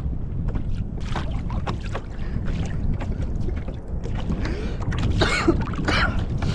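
Water sloshing around a kayak with a steady low rumble of wind on the microphone, and a few light knocks and splashes.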